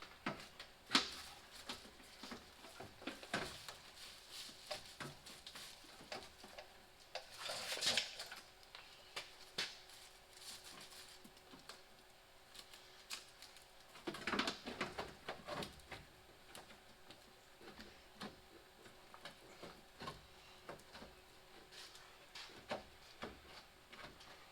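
Scattered light clicks and taps of small metal fasteners and parts being handled while a truck headlight assembly is fitted by hand. Two short rustling scrapes come about 8 seconds in and about 14 seconds in.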